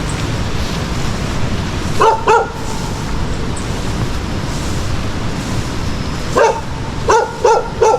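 Dog barking: two short barks about two seconds in, then four more in quick succession near the end, over a steady low background rumble.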